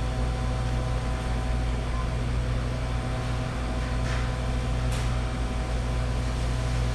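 Steady low mechanical hum with a few faint steady tones above it, and two faint clicks about four and five seconds in.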